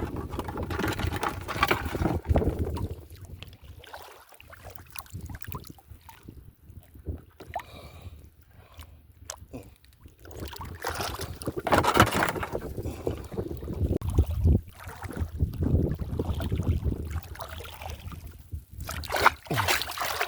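Water sloshing and splashing in irregular bursts, with wind buffeting the microphone; quieter for a few seconds in the middle before the splashing picks up again.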